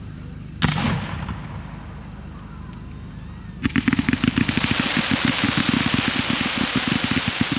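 Display fireworks: a single shell bursts with a sharp bang about half a second in, then from about three and a half seconds in a rapid run of bangs sets off and merges into dense, loud crackling that carries on.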